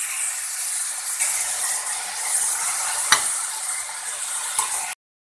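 Onions and chopped tomatoes sizzling in hot oil in a pressure cooker, stirred with a steel spoon that scrapes and clinks against the pan. There is one sharp clink about three seconds in, and the sound cuts off near the end.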